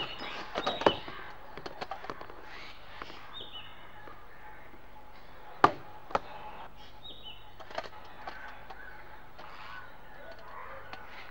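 Quiet background ambience with a few short bird chirps, broken by several sharp knocks; the loudest knock comes about halfway through.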